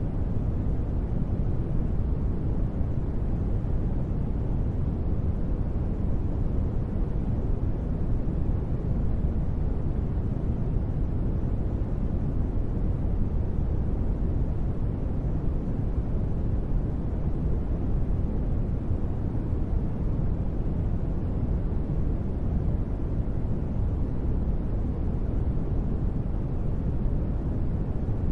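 Steady low noise, mostly in the bass and fading toward the treble, with no changes or events: a synthetic ambient noise bed for sleep and relaxation.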